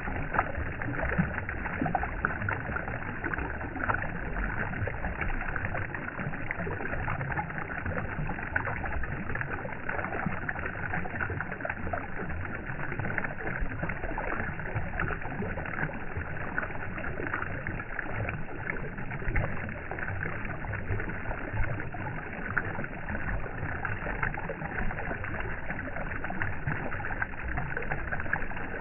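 Steady, continuous water noise with small irregular splashes and a low rumble underneath.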